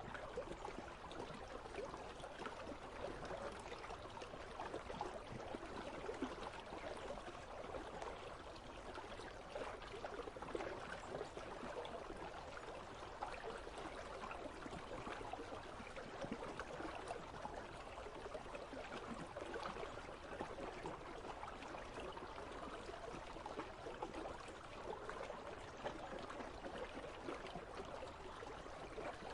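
Steady babble and trickle of a river running between ice.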